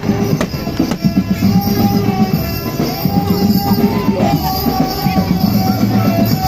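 Loud music from a procession drum band and barongan troupe: drums beating steadily under a held melody line.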